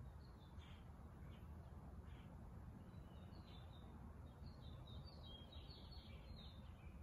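Near silence: room tone with faint bird chirps, which come more often in the second half.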